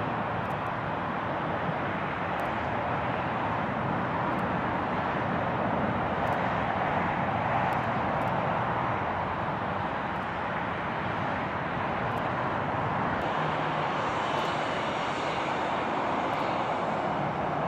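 Airliner engines running at a distance as a steady rush of noise. A faint whine joins in during the last few seconds.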